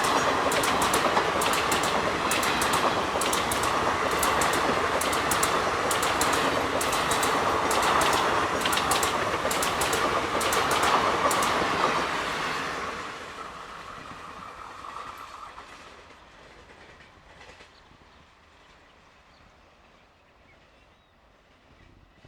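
Passenger coaches passing close at speed, wheels clicking rapidly and evenly over rail joints with a steady rushing noise. About twelve seconds in the last coach passes and the sound dies away quickly.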